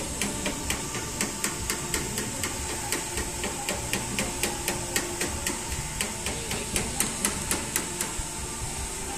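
Toyota BJ40's diesel engine running, with a sharp, regular ticking about four times a second over a steady low rumble.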